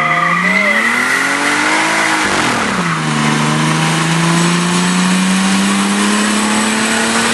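2JZ-GTE inline-six with a T67 turbo in a 1989 Toyota pickup accelerating hard: tire squeal fades out in the first second, the revs climb, drop sharply at a gear change about two and a half seconds in, then climb steadily again.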